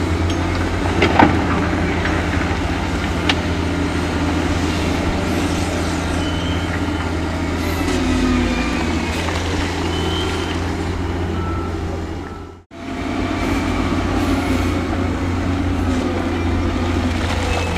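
Heavy diesel earthmoving machinery running steadily with a deep, constant engine hum, with faint clanks and short high tones over it. The sound cuts out for a moment about two-thirds of the way through.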